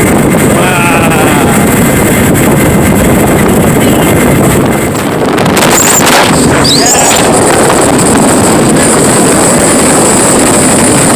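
Motorboat running fast across the lake, its engine and the water rush buried under loud, steady wind buffeting on the microphone. About halfway through, the noise dips briefly, then a short high-pitched gliding sound rises out of it.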